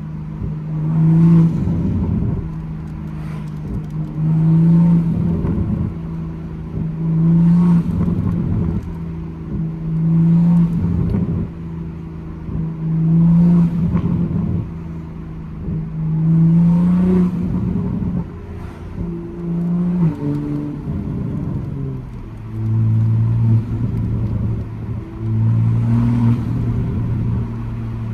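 Toyota GR Supra engine and exhaust cruising at a steady pitch, with a louder swell about every three seconds. About two-thirds of the way through, the engine note falls and settles at a lower, deeper pitch.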